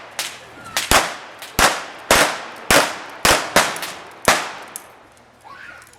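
A rapid string of about nine gunshots, each a sharp crack with a short echo, about half a second apart, stopping a little over four seconds in. These are most likely blank-firing revolvers in a staged Wild West shootout.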